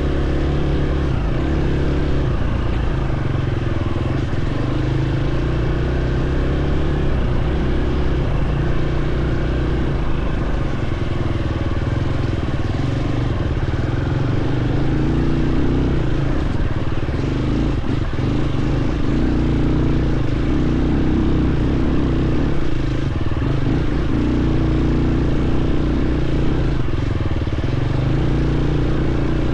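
Dirt bike engine running steadily while being ridden on a trail, its pitch shifting slightly up and down with the throttle.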